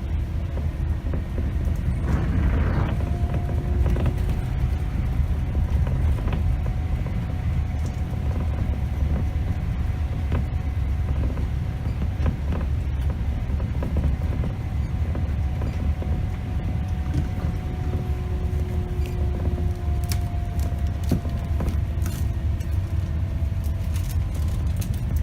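Scania K270 city bus on the move, heard from the driver's position: a steady low rumble of diesel engine and road, with a whine that drifts slowly up and down in pitch. Short rattles and clicks come through, more of them near the end.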